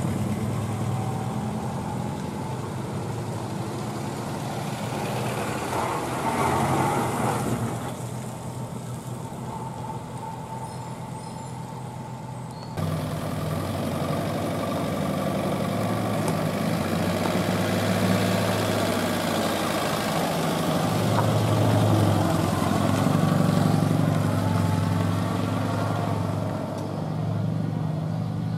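Jowett car flat-four engine running at low revs, a steady low hum. About 13 seconds in the sound changes abruptly to a louder engine idling close by.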